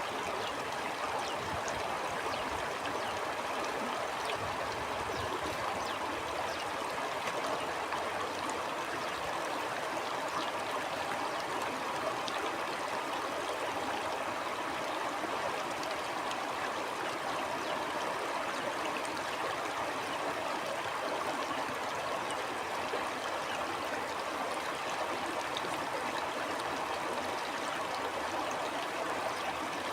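Stream water flowing steadily, a constant rushing with small splashes and gurgles.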